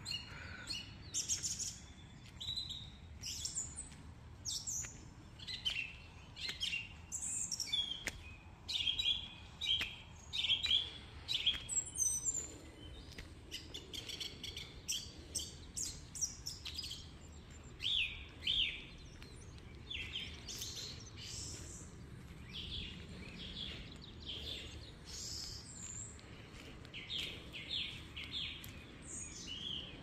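Several songbirds chirping and calling, many short high calls overlapping throughout.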